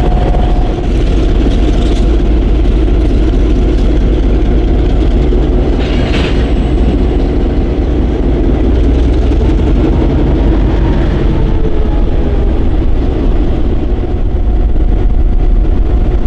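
Freight train rolling by on a short-line railroad: diesel locomotive running and railcars clattering over the track, steady and loud, with a short sharper sound about six seconds in.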